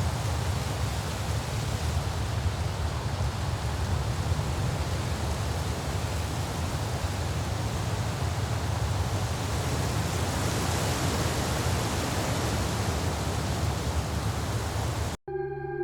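Steady rushing noise with a low rumble, picked up by a trail camera's microphone out in the open, unchanging throughout; about a second before the end it cuts off suddenly and music with sustained tones begins.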